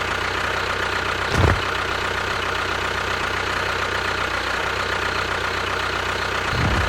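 A vehicle engine idling steadily, with a short low thud about a second and a half in and a deeper rumble building up near the end.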